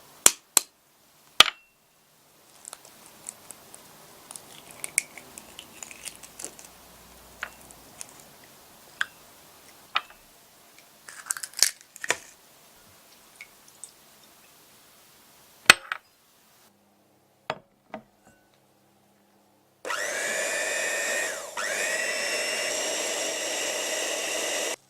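Scattered clinks and taps of bowls and utensils, then an electric hand mixer starts about twenty seconds in and runs steadily, whipping egg whites for meringue, its pitch dipping briefly and recovering once.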